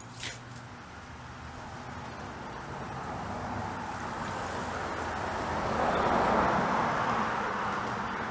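A road vehicle passing by, its tyre and engine noise growing louder to a peak about six seconds in and then fading. A short sharp click just after the start.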